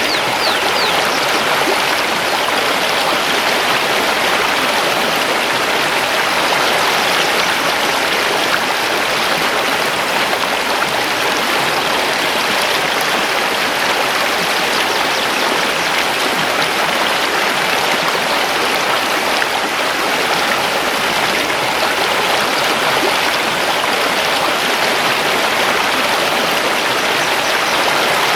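Mountain river rushing steadily over stones, a loud, even flowing sound.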